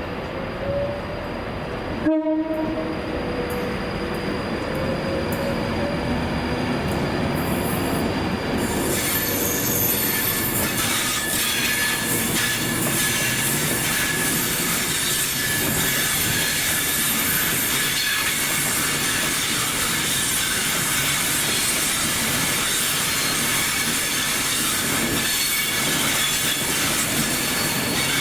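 Train running past, with steady rail noise and a sustained wheel squeal from about nine seconds in. A short horn-like tone sounds just before an abrupt cut about two seconds in.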